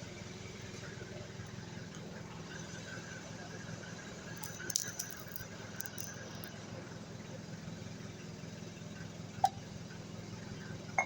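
Light metallic clinks and rattles of tools or engine parts being handled, a short cluster near the middle and a sharp single tick near the end, over a steady low hum.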